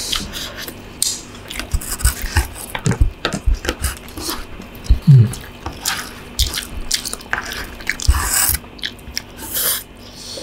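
Close-up eating sounds of stir-fried instant noodles: irregular wet chewing, smacking and mouth clicks. A short, low, falling hum comes about halfway through.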